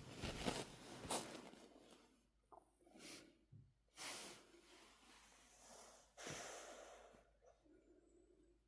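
A sleeping dog's breathing and snorts: several noisy puffs of breath, loudest in the first second or so, with soft low snoring sounds between them.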